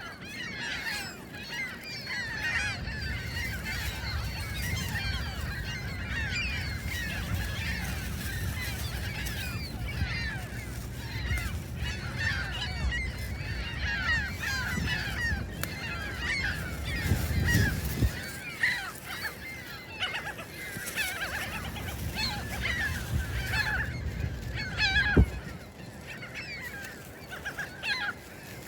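A flock of gulls calling without pause, many short, overlapping squawks, over a low rumble, with one sharp knock near the end.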